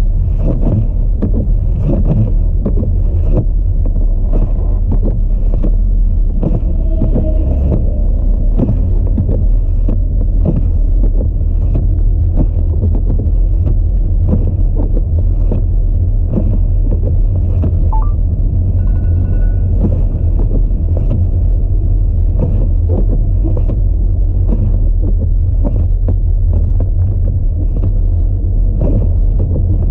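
Audi A4 driving through a snowstorm: a steady, loud low rumble of road and wind noise with irregular buffeting thumps, and a brief faint tone about two-thirds of the way through.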